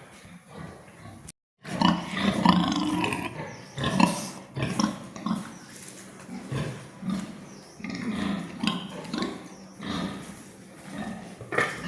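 Repeated short animal calls at irregular intervals, with a brief cut to silence just over a second in.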